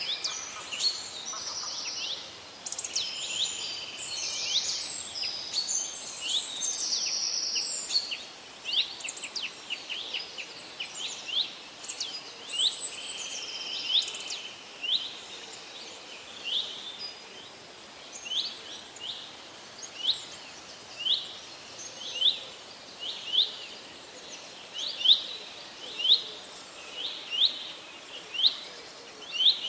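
Birds calling outdoors: at first several birds overlap in a busy mix of high chirps and held whistles. From about halfway on, one bird dominates, repeating a short, sharp, high call about once a second.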